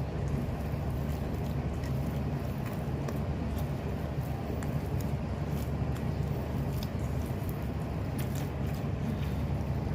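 Bread dough being kneaded by hand with oil worked into it, giving faint soft squishes and small clicks over a steady low background hum.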